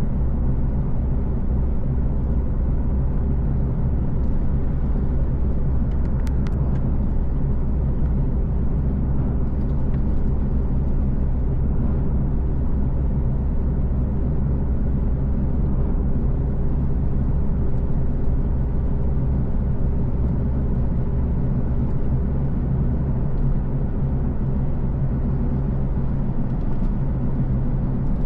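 Car driving steadily on the road: a constant low rumble of engine and tyre noise that holds level throughout.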